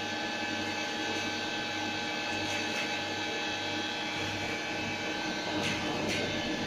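Steady drone of running machinery: a constant hum with several steady tones over a hiss, and two faint ticks near the end.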